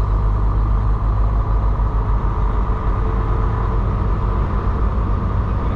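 Semi-truck's diesel engine running with a steady, unbroken low rumble and road noise.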